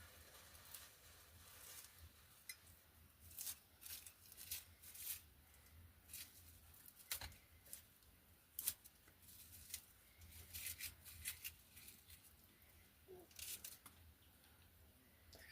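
Faint kitchen food-preparation sounds: a dozen or so short, irregular scraping and cutting strokes.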